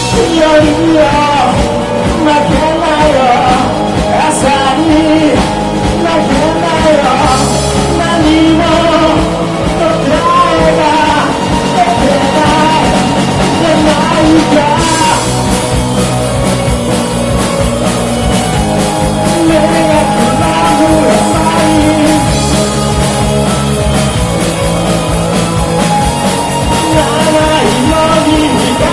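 A rock band playing live, with electric guitars, bass and drums, and singing. The music changes partway through, about halfway in.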